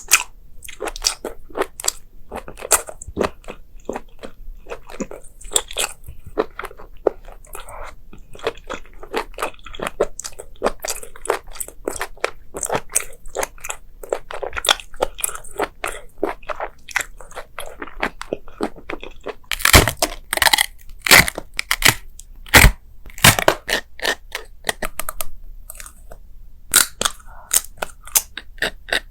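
Close-miked eating: crunchy food being bitten and chewed, a steady stream of crisp crackles with a run of louder crunches about two-thirds of the way in.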